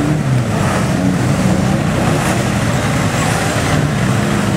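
Engines of several banger racing cars running together on the track, a loud, steady drone at fairly even revs.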